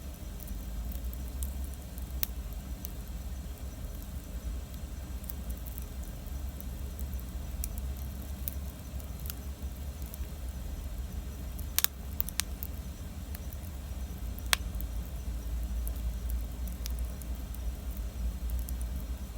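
Wood campfire burning: scattered small crackles and ticks from the burning wood, with a few louder snaps, over a steady low rumble.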